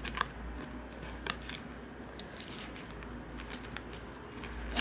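Handling noise of a jersey and its paper hang tag: faint rustling with a few sharp clicks, the sharpest near the start and about a second in, over a steady low hum.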